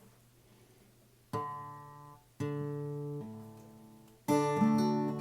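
Acoustic guitar: three strummed chords, each left to ring and fade, the third the loudest, after about a second of near quiet.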